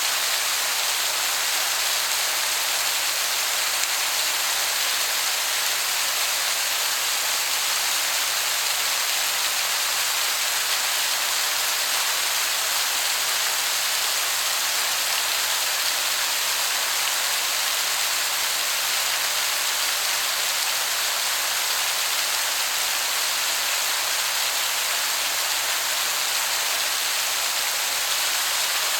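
Waterfall: falling water making a steady, even hiss, mostly high-pitched, that sounds like heavy rain.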